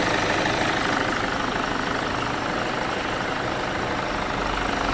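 Peugeot 207 engine idling steadily with a rough 'brr brr' noise, which the owner traces to the turbocharger because it quiets when the turbo is pressed by hand.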